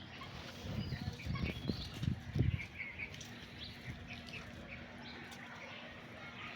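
Chickens outdoors: many short, high chirps and peeps through the whole stretch, with a few low thumps in the first two and a half seconds.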